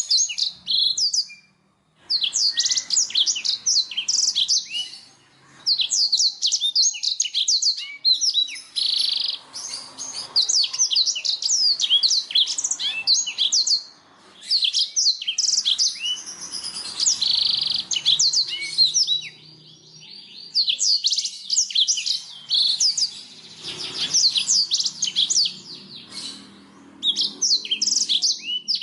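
Blackthroat (black-throated canary) singing a fast, continuous song of high twittering trills and chirps in phrases several seconds long, with short pauses between them.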